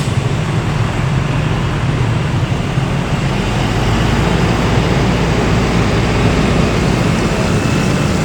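Steady vehicle noise: a low rumble under a constant hiss, with no clear start or stop.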